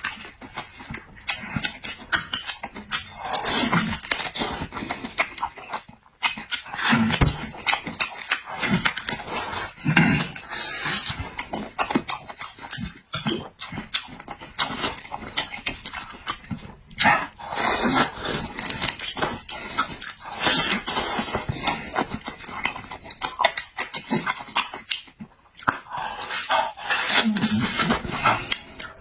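Close-up chewing and lip-smacking of a person eating meat, with wet irregular clicks and short low murmurs between bites.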